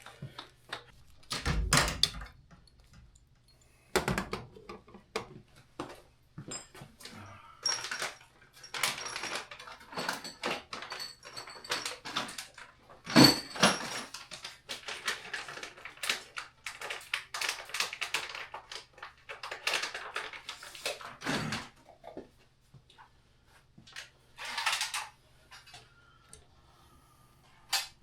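Irregular knocks, clicks and scrapes of hand tools and copper refrigerant tubing being handled and bent into place, with one sharp knock about halfway through.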